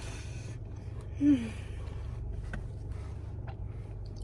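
A woman's breathy intake of breath followed by a short, loud, falling voiced exclamation about a second in, with a steady low hum underneath and a couple of faint clicks later.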